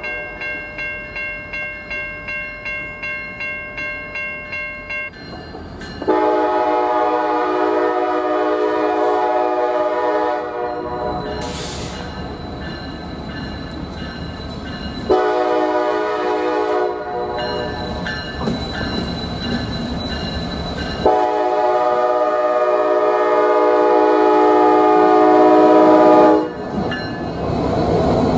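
A bell ringing steadily at about two and a half strokes a second, then a Norfolk Southern diesel locomotive's horn sounding three blasts, the first and last long and the middle one short, with the train's engine and wheels running between them.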